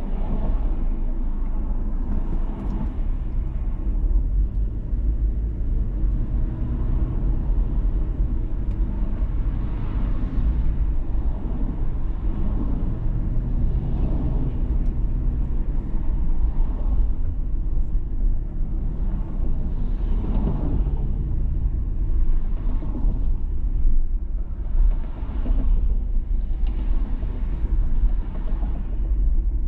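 Road and engine noise of a 2019 Toyota 4Runner TRD Pro driving in traffic: a steady low rumble, with swells of louder noise every few seconds.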